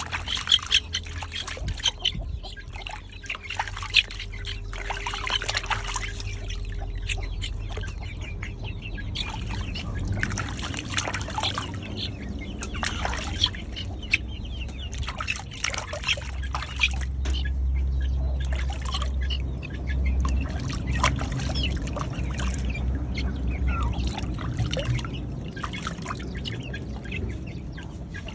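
Water splashing and trickling in irregular spurts as a chicken is bathed.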